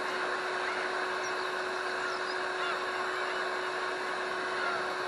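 Small Honda BF2DH 2-horsepower four-stroke outboard motor running steadily with a constant hum, while birds call faintly over it.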